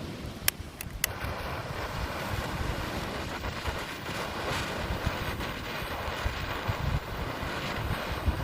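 A few sharp clicks, then from about a second in a handheld firework hisses steadily as it burns and sprays sparks. Wind rumbles on the microphone throughout.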